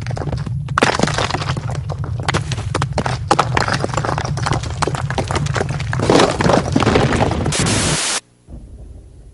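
Earthquake shaking: dense cracking and clattering of rattling, breaking objects over a steady low rumble. It cuts off abruptly about eight seconds in.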